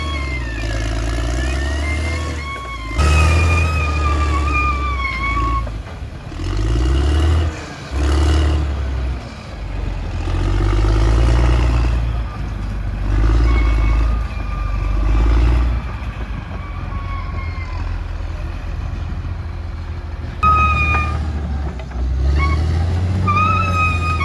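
Caterpillar D6R XL bulldozer's diesel engine working, its rumble rising and falling repeatedly as the load changes. A high squealing tone comes and goes over it, strongest a few seconds in and again near the end.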